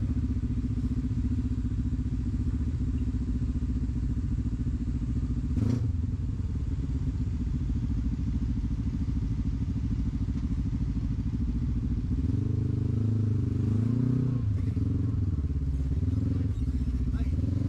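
Off-road rock-crawling vehicle's engine running at low speed as it crawls over rocks, with a single sharp knock about six seconds in. From about twelve seconds in the engine revs up and down under load as the driver throttles to climb out.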